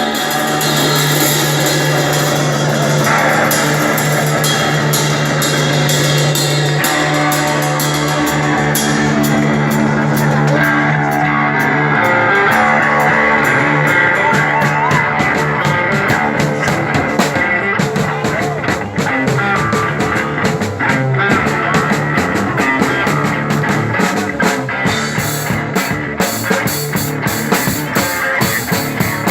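Live rock music from a guitar-and-drums duo: electric guitar holding long low notes over a drum kit, the drumming turning busier and more driving in the second half.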